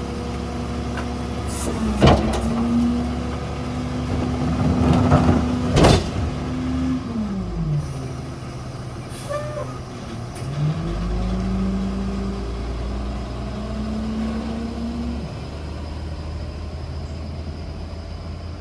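Ford F-750 garbage truck's engine running at raised revs, with two sharp bangs about two and six seconds in. The revs drop to idle about seven seconds in, rise again a little past the middle, and drop back about fifteen seconds in.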